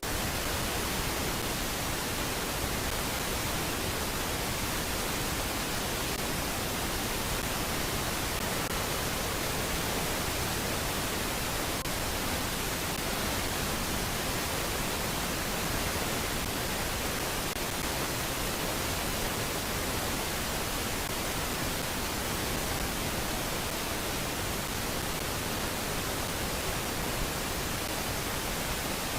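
Steady, even hiss of static-like noise with no distinct events or bird calls.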